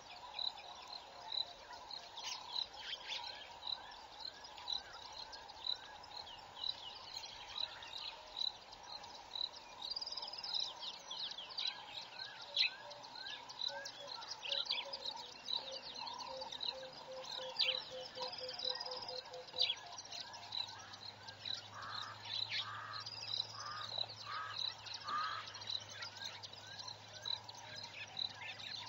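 Outdoor bush ambience of several birds chirping and calling, over a high tick repeating about twice a second; a low steady hum comes in about two-thirds of the way through.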